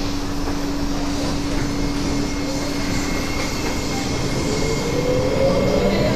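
SMRT C751B electric train running with a steady rumble and hum; about two-thirds of the way in its traction motors start a rising whine as the train picks up speed.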